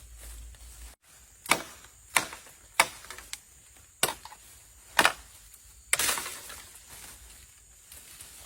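Wood being chopped: about six sharp strikes, roughly one a second.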